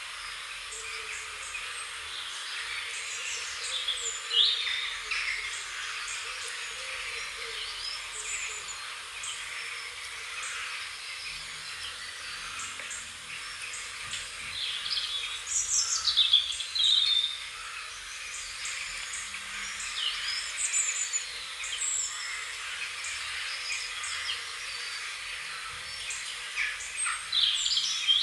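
Wild songbirds chirping and singing over a steady background hiss. The calls come as many short, quick notes and falling whistles, and are loudest in a busy burst about halfway through and again near the end.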